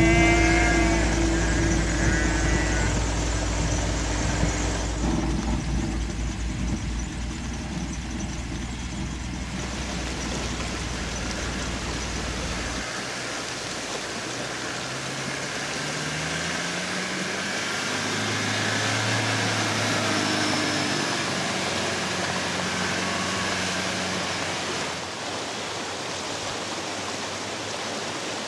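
Land Rover Defender engine running as it drives a rough track and through a shallow ford. The pitch rises about halfway through as it pulls away, with a hiss of splashing water and tyre noise.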